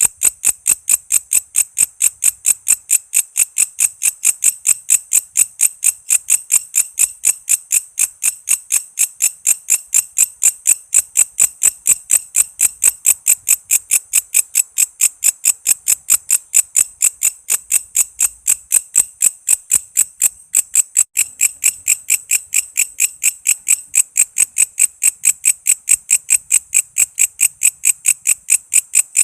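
Walang kece, a singing grasshopper-type insect, calling in a steady, rapid train of sharp, high chirps, about four to five a second, unbroken throughout.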